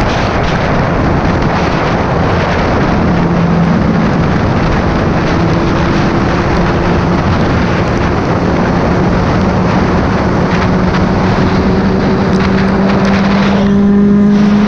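Vehicle engine running at speed under a heavy rush of wind and road noise, its hum slowly rising in pitch. About a second before the end the rush eases and the engine note stands out more clearly.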